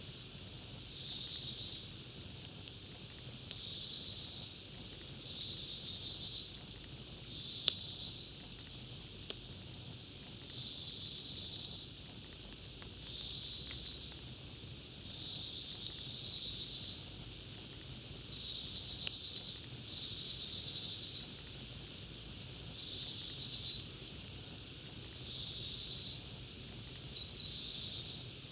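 Campfire crackling with scattered sharp pops, the loudest about eight seconds in. Behind it, a high buzzy trill like an insect's, each about a second long, repeats roughly every two seconds.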